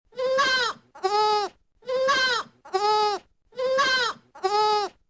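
Goat bleating six times in three pairs, each call about half a second long, the second of each pair lower in pitch.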